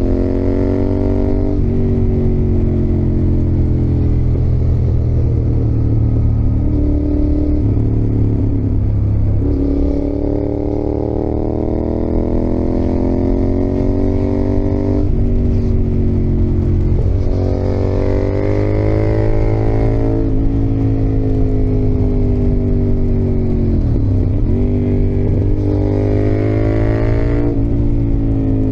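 Yamaha XSR700's CP2 parallel-twin engine under way, its pitch climbing steadily as the bike accelerates and dropping sharply at each of several gear changes, with one quick dip and recovery where the throttle is rolled off and back on.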